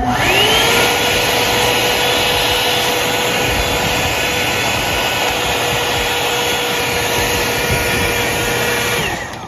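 Hot Tools 24K Gold One-Step hair dryer brush switched on: its motor whines up to speed within the first second, runs steadily with a loud rush of blown air, then winds down as it is switched off near the end.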